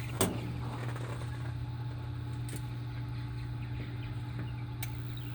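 Lennox Pulse furnace pressurizing before ignition: a steady low hum from the unit, with a sharp click shortly after the start and two fainter ticks later.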